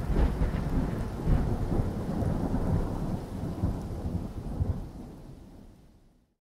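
Storm sound effect: a rumble like thunder, with a hiss like rain, that fades out to silence near the end.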